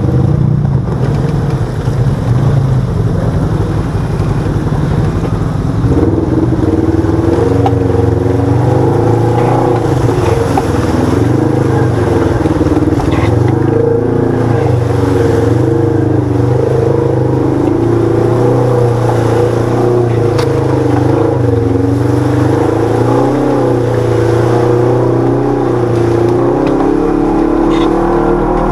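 Engine of a side-by-side UTV with a 1000 cc parallel-twin, running under changing throttle while driven; its pitch wavers up and down, and the revs step up about six seconds in.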